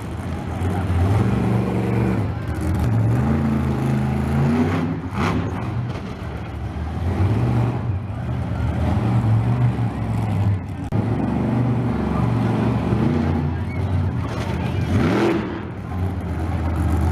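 Monster truck's big engine running loudly and revving, its pitch rising and falling again and again, with a rising rev near the end.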